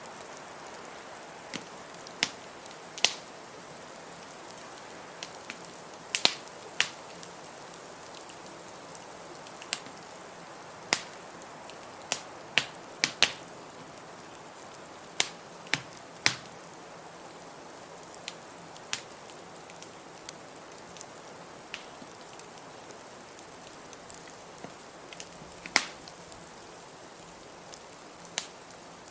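Wood fire crackling in a fireplace: sharp, irregular pops and snaps every second or two over a steady hiss of blizzard wind.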